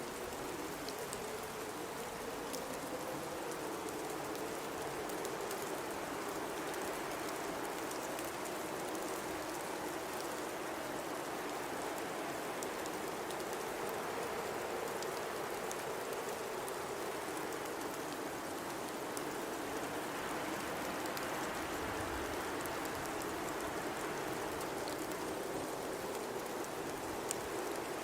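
Blizzard wind blowing steadily: a rushing noise with a low tone that wavers slowly in pitch, and faint scattered ticks.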